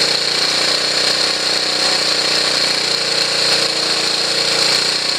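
Honda CT110's single-cylinder four-stroke engine idling steadily, warm, while its idle mixture screw is turned a quarter turn leaner.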